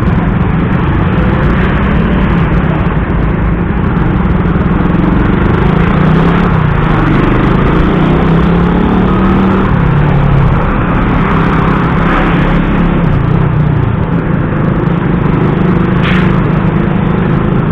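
Motorcycle engine running on the move in traffic, its pitch rising and falling with the throttle, over a steady loud noise of wind and road.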